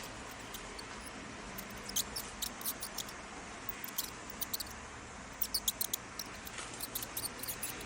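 Mouse squeaking: short, high-pitched chirps coming in scattered clusters over a steady background hiss.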